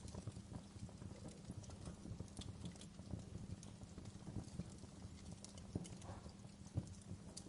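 Wood fire burning in a fireplace: irregular small crackles and pops over a low, steady rumble of the flames.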